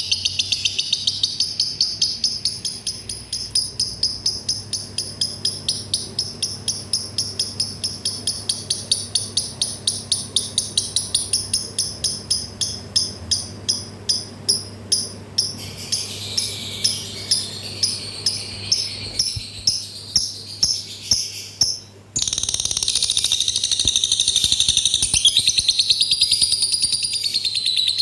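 Lovebird giving a long run of rapid, repeated high chirps, several a second, the pace slowing somewhat midway; it breaks off briefly about 22 seconds in and resumes as a denser chatter. A faint steady low hum runs underneath.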